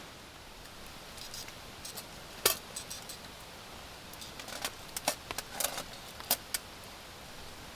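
Scattered sharp clinks and taps of small hard objects, like camp tableware being handled. The loudest comes about two and a half seconds in, and a cluster falls between about four and a half and six and a half seconds. Under them runs a steady hiss of rain and running water.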